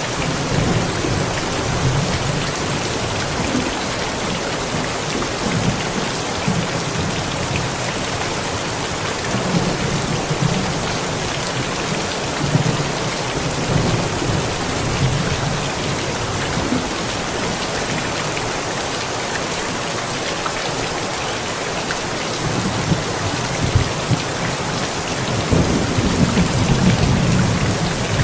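Steady heavy rain hissing during a thunderstorm, with low thunder rumbling in repeated swells and the strongest roll of thunder near the end.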